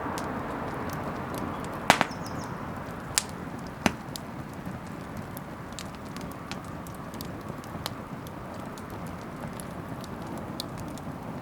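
Wood bonfire crackling over a steady hiss, with a few sharp pops: a loud double pop about two seconds in, two more about three and four seconds in, then fainter ticks.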